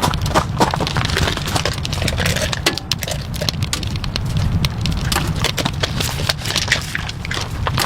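Rain falling in heavy drops that tap irregularly on a surface, over a steady low rumble.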